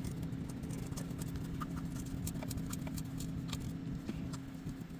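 A steady low machine hum runs throughout, with scattered light clicks and ticks of metal parts being handled over it.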